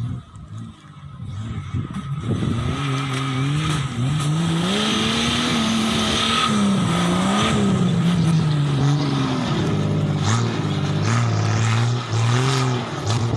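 Off-road vehicle's engine revving up and down over and over under load. It is quieter for the first two seconds or so and loud after that.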